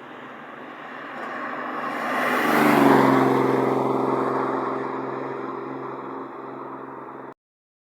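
A car's engine passing close by, growing to its loudest about three seconds in and then fading away. The sound cuts off abruptly near the end.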